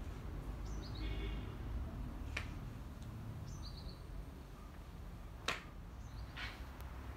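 A bird repeating a short, high chirping call every two to three seconds over a low steady background noise, with a few faint clicks.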